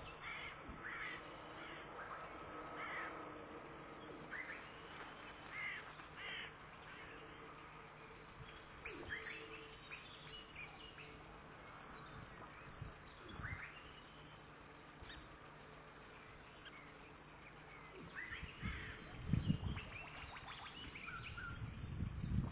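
Short bird calls repeated on and off over a faint steady hum, picked up by an outdoor nest-webcam microphone. Near the end, a few low thumps are the loudest sounds.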